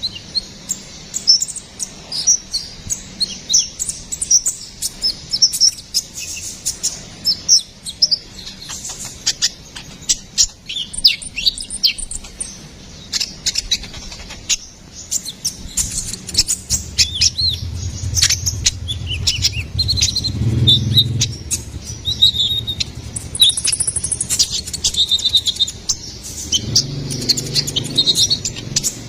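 Kolibri ninja (konin) sunbird singing: rapid, high chirps and twittering phrases, one after another. A low hum runs under the song for several seconds past the middle and again briefly near the end.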